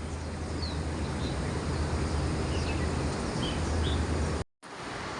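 Steady low hum over a background wash of noise, with a few faint, short, high bird chirps. The sound cuts out abruptly near the end.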